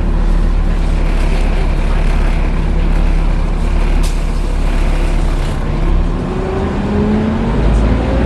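Interior sound of a Volvo B7TL double-decker bus: a steady low engine drone under the loud hoovering whoosh of its cooling fan, with a single sharp click about four seconds in. From about six seconds in, rising whines as the bus pulls away and gathers speed.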